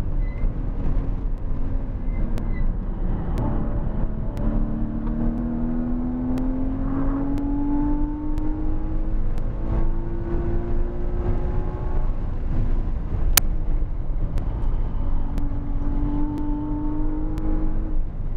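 Porsche Cayman GT4's flat-six engine under hard acceleration, its pitch climbing steadily for several seconds, dropping off, then climbing again near the end, over heavy wind and road rumble. A sharp click about thirteen seconds in.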